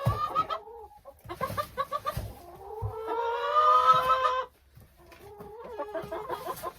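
Domestic hens clucking, with one long drawn-out call about three seconds in. A few dull knocks come in between the calls.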